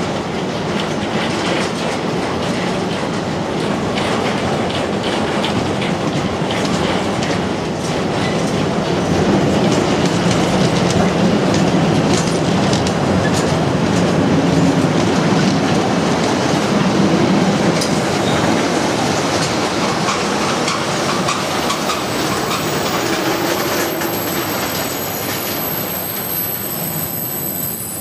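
A long freight train's wagons rolling past close by, including empty flat wagons and car-carrier wagons, with a steady rumble and wheels clattering over rail joints. A thin, high-pitched wheel squeal comes in during the last few seconds.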